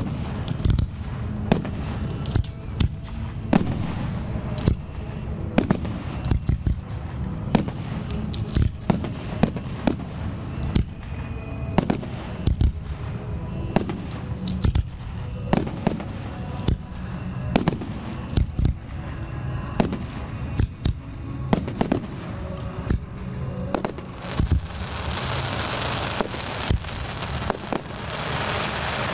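Aerial firework shells bursting one after another, with sharp booms coming about once or twice a second over music. Near the end a dense, steady hiss builds up under the bursts.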